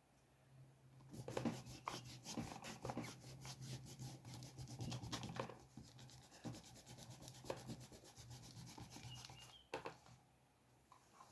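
Quick, scratchy strokes rubbing across paper as a drawing is sketched, in a dense run that starts about a second in and stops near the end.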